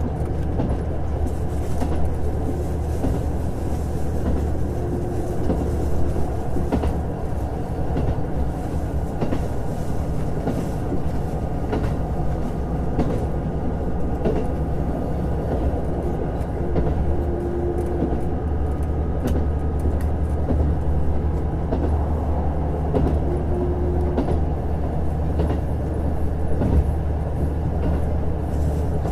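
JR Hokkaido KiHa 150 diesel railcar running along the line with a steady diesel engine hum. Light wheel clicks over the rails come at irregular intervals.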